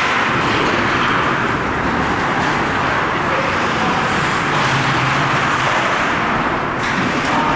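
Steady, loud din of an ice hockey rink during play, an even wash of noise with no single event standing out.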